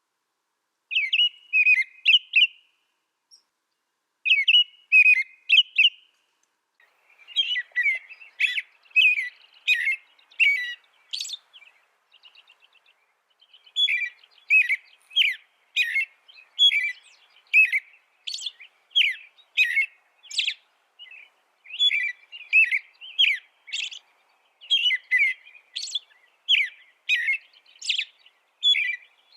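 A small songbird singing rapid, chirping phrases of quick notes. The song starts in short bursts, then runs on almost without a break, with one pause of about a second and a half near the middle.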